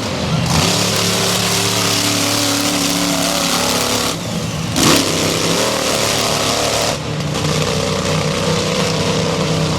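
Monster truck engine running loud and revving, with a dense roar over it. The sound changes abruptly at edits about half a second, four and seven seconds in.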